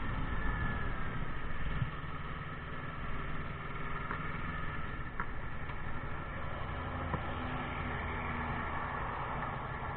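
Motorcycle engine running, with the overall sound dropping a little about two seconds in and then holding steady.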